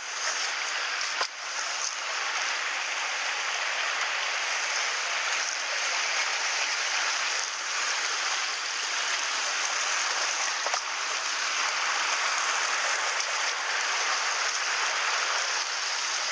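Mountain stream water rushing steadily over rocks, with a few faint clicks.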